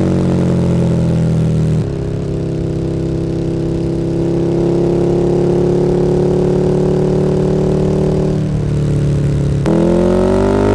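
KTM 1290 Super Duke R V-twin running through an Akrapovič Evolution Line exhaust while riding. The engine note eases down for about two seconds and changes abruptly, then holds a long steady pull with slowly rising pitch. It dips briefly near the end and the revs then climb quickly.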